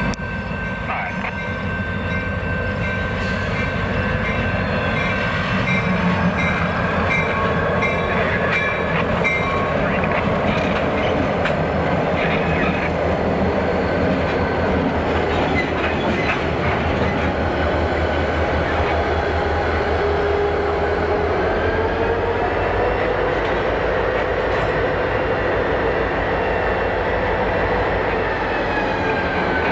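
A train rolling steadily past on the rails, its cars running by continuously, with a few thin high-pitched tones over the running noise.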